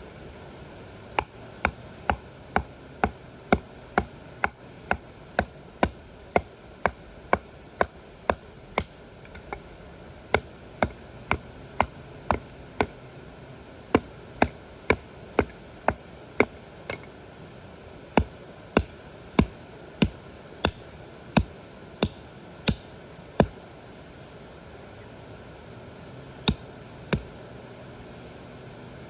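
Repeated sharp strikes, about two a second, in runs with short pauses between them, over a steady background hiss. The strikes stop for a few seconds near the end, then come twice more.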